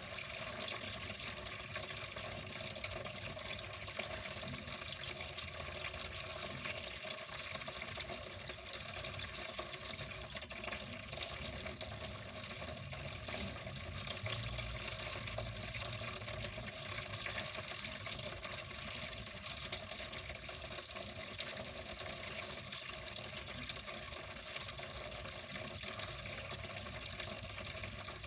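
Water flowing steadily, an even continuous rush with no pauses or changes.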